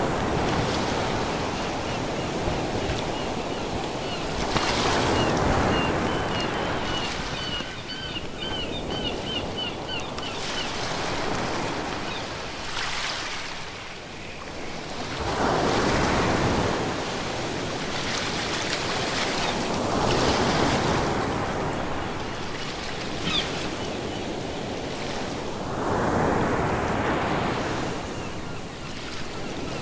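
Ocean waves breaking and washing ashore in a continuous rush that swells every four to six seconds. Between about seven and ten seconds in, a run of rapid, high chirps sounds over the surf.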